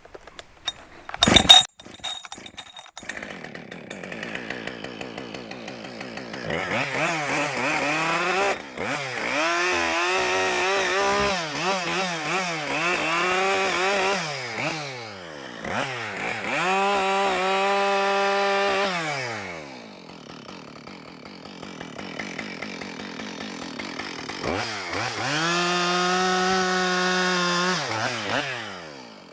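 Two-stroke chainsaw: a loud sharp burst about a second and a half in, then the saw idles and is revved up three times, the pitch sagging and wavering under load as it cuts, dropping back to idle between runs.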